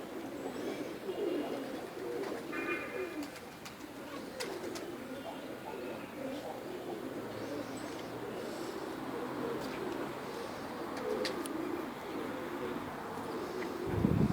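A flock of domestic pigeons cooing, many birds overlapping in a continuous low cooing, with a few scattered clicks. A short low thump comes near the end.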